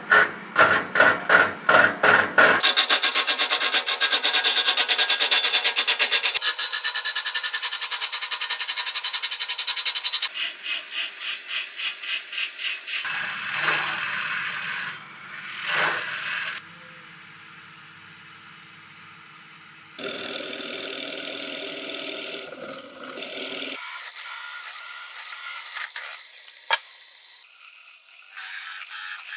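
Wood being worked with shop tools in a series of short cuts: rhythmic rubbing and rasping strokes, about four a second at first, then a dense, fast scraping, then slower strokes. The sound changes abruptly several times.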